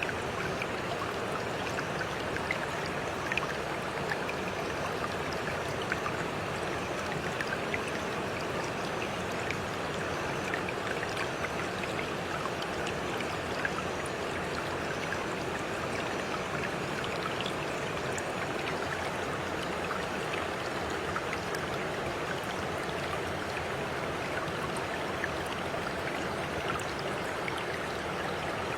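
Steady flowing water, as in a small stream, with scattered faint drip and splash ticks.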